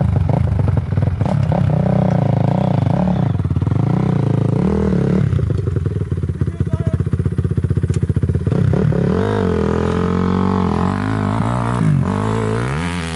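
Honda CRF250 motocross bike's single-cylinder four-stroke engine being ridden hard, its pitch rising and falling again and again with the throttle.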